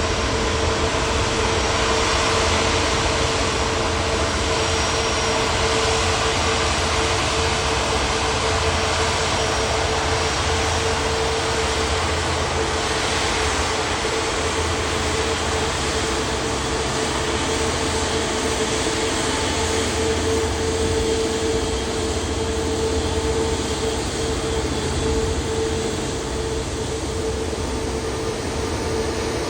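Jet airliner engines running: a steady, loud rushing noise with a steady hum in it, holding level throughout.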